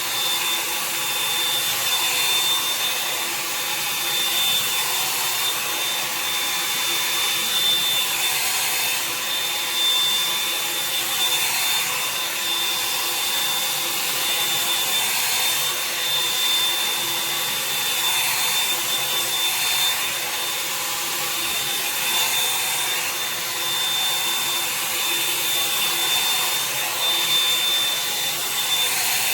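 Revlon One-Step hair dryer brush running steadily, its fan blowing with a high, steady whine, while the brush is pulled through sections of wet hair.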